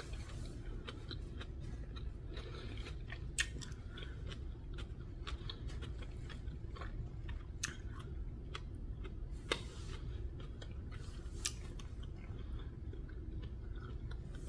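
A person quietly chewing a fried portobello mushroom strip, with a few sharp, irregular clicks and crunches over a steady low room hum.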